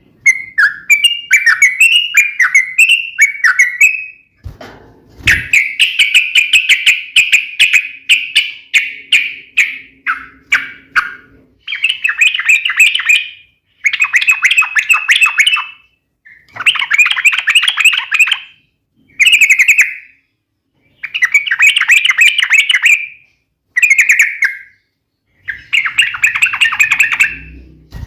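Yellow-vented bulbul (trucuk) singing a sharp, combative song in phrases of rapid chattering notes, each phrase one to two seconds long with short pauses between. This is the kind of challenge song that provokes other trucuk birds to answer. A brief low thump comes about five seconds in.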